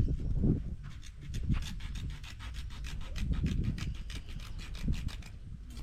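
A rapid, regular rasping scrape, about eight strokes a second, that starts about a second in and stops shortly before the end, over a low rumble.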